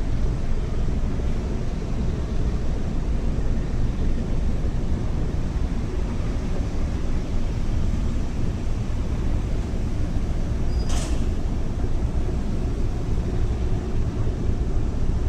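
Steady low rumble of a ferry's engines underway, with a brief hiss about eleven seconds in.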